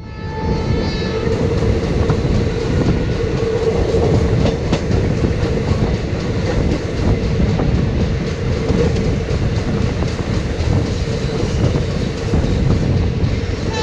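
Running noise of a moving Indian Railways passenger train, heard from a coach doorway: wheels rumbling and clacking over the rails, with a steady hum underneath. It fades in over the first second.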